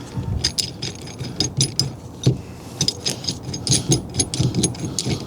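Steel lock plate compressor tool being fitted onto the steering column shaft: a run of irregular metallic clicks and rattles as the tool is set up to compress the lock plate spring.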